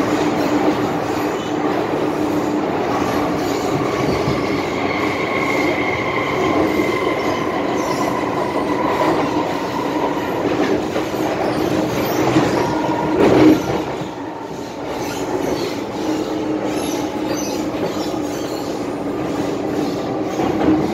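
MTR M-Train electric multiple unit running along the track, heard on board: a steady rumble of wheels on rail with thin, steady squealing tones from the wheels, and one brief louder clunk about 13 seconds in.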